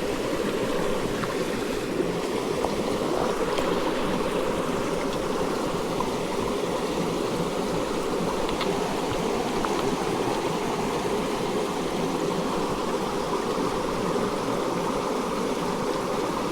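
Steady rushing water of a forest stream, an even, unbroken flow.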